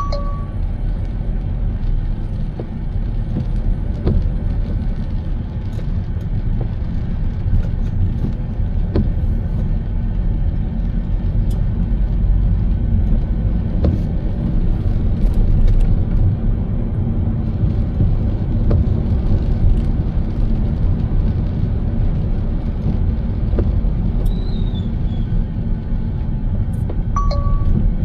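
Car on the move: steady low road and engine rumble, with scattered faint clicks.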